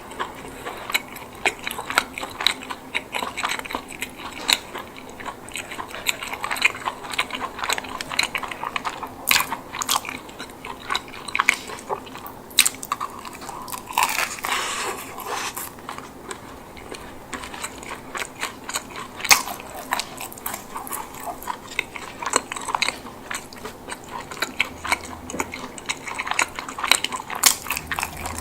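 Close-miked eating sounds: bites into a baked chicken bake roll, with crisp crust crackling and wet chewing of the soft chicken and mozzarella filling. There is a longer run of crackling about fourteen seconds in.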